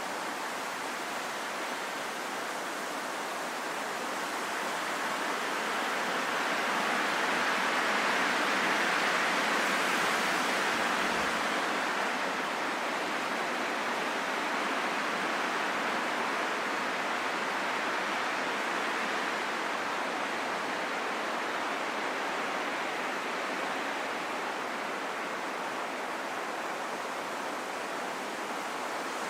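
Steady rain in a forest, an even hiss that swells a little louder about a quarter of the way in, then eases back.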